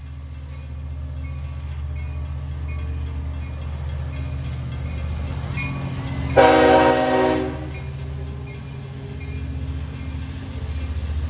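Long Island Rail Road diesel train running with a steady low rumble, its locomotive sounding one horn blast of about a second roughly six seconds in.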